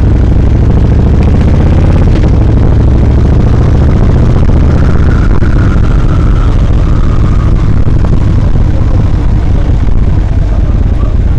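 Cruiser motorcycle engine running loudly as the bike is ridden. Its low note holds steady for the first few seconds, then turns less even.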